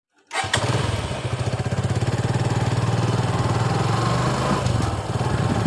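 Suzuki Gixxer's single-cylinder engine running steadily at a constant speed, cutting in suddenly about a third of a second in.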